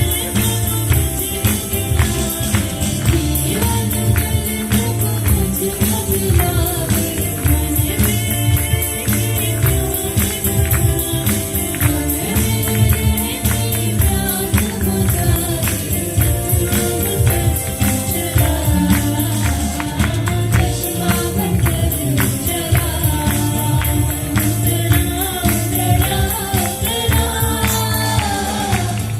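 Choir singing a gospel worship song with a band, a tambourine and drums keeping a steady fast beat.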